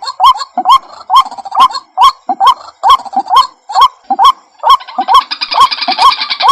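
White-breasted waterhen calling: a loud, rapid string of short rising notes, about three a second. About five seconds in, a second, higher and harsher call joins.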